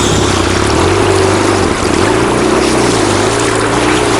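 BMW R1200GS boxer-twin engine running while the motorcycle is ridden, its pitch wavering slightly, under a heavy rush of wind noise.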